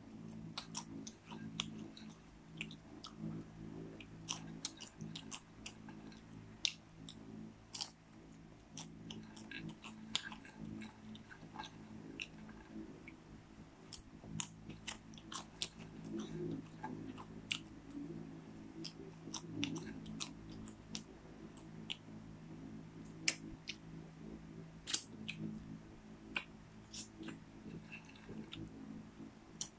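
Popcorn being chewed and crunched close to the microphone: many short, crisp crunches at an irregular pace.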